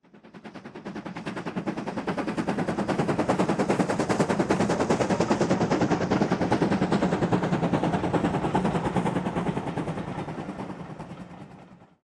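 Steam locomotive working hard at speed, its exhaust beats coming in a rapid, even stream of about ten a second, fading in and then out.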